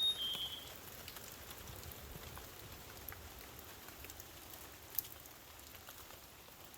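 Light rain and water dripping in the forest: faint scattered ticks over a soft steady hiss. A brief high chirp sounds right at the start, and one sharper tick about five seconds in.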